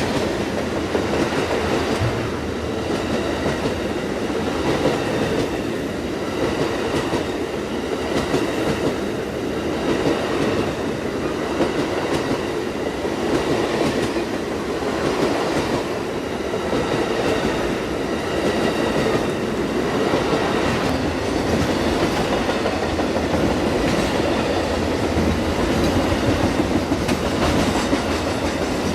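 A long Amtrak Auto Train's cars rolling steadily past, a continuous rumble of steel wheels on rail with light clicking over the rail joints.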